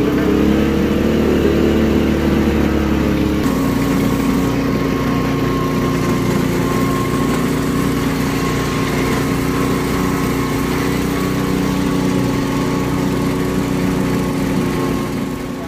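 Moving train heard from on board: a steady engine drone over running noise, its note shifting slightly about three and a half seconds in.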